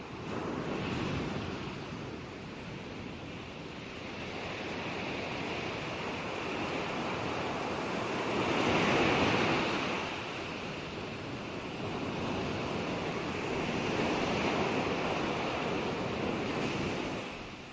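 Ocean waves breaking and washing on a shore, a steady surf noise that swells and ebbs. The loudest wave crests about halfway through and the wash falls away near the end.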